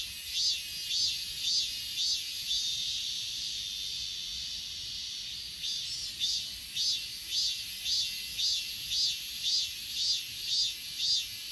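Grass insects chirping in chorus: high-pitched chirps repeating about twice a second, smoothing into a continuous trill for a few seconds in the middle before the rhythmic chirping resumes, with a second, even higher insect pulsing steadily above.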